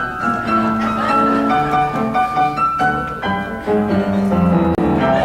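Piano playing a run of melody notes over changing chords.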